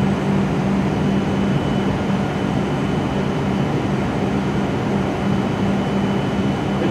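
Steady mechanical hum of a W7 series Shinkansen standing at the platform, its onboard equipment running with a constant low drone.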